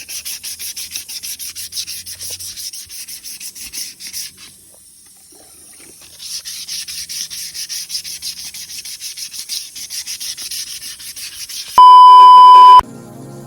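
Hand wet-sanding of an aluminum wheel with 320-grit sandpaper: quick, rhythmic back-and-forth rubbing strokes that pause for about two seconds and then resume. Near the end a loud, steady beep tone lasting about a second cuts in, and soft music follows.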